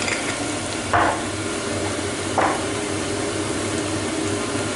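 Onion and tomato frying in butter in a skillet, sizzling steadily, with two short knocks about a second and a half apart.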